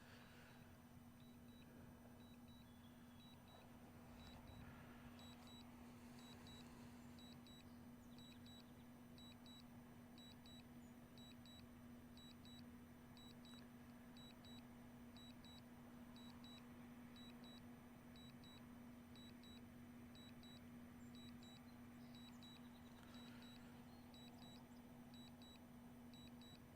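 Faint short high beeps from a DJI drone remote controller signalling Return to Home, repeating about once a second, single at first and in pairs from about five seconds in, over a steady low hum.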